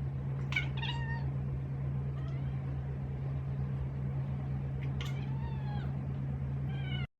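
A cat meowing twice, two short calls falling in pitch about half a second in and about five seconds in, over a steady low hum.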